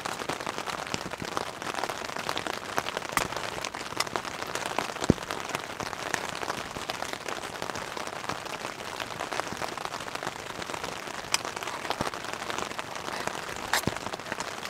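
Steady rain pattering on the tent fly, heard from inside the tent, with scattered sharp ticks through it.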